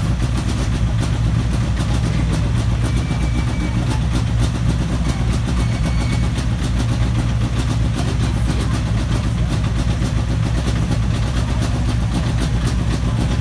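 A rally car's engine idling steadily and loudly.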